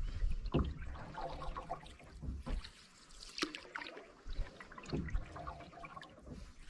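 Canoe paddle dipping and pulling through calm water in a few irregular strokes, with water splashing and trickling off the blade.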